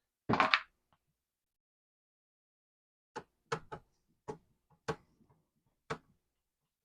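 A short rustle, then about six light, irregularly spaced knocks and clicks of hard parts being handled during reassembly of a Commodore 64.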